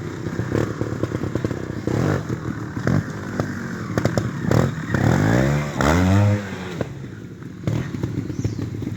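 Trials motorcycle engine running at low revs, with two sharp throttle blips, each rising and falling, about five and six seconds in, and knocks and clatter as the bike works over the obstacles.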